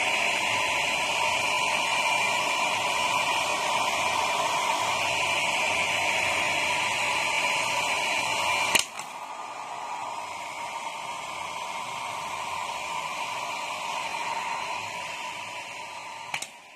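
Hair dryer running with a steady blowing hiss. A sharp click about nine seconds in is followed by a quieter hiss, and another click comes near the end.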